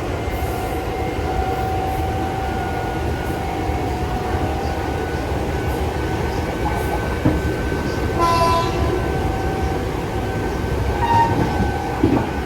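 Running sound of a Nankai 6000 series electric train at speed: a steady rumble with a whine from the motors and gears. A short burst of higher tones comes about eight seconds in, and a few knocks from the wheels over rail joints come near the end.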